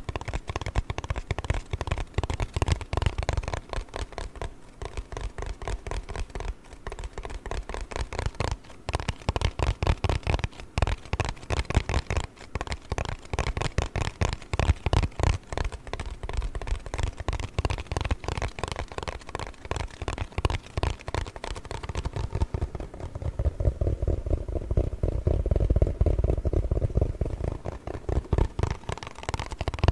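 Fast tapping and scratching on a cardboard box, a dense stream of quick crisp taps. For a few seconds near the end the sound turns duller and deeper.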